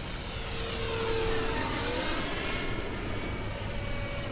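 Electric ducted-fan RC jet flying, a high steady fan whine that rises in pitch about two seconds in as the throttle is advanced.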